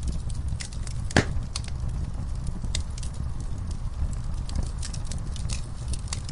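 Wood fire burning, crackling and popping irregularly over a low steady rumble, with one loud sharp pop about a second in.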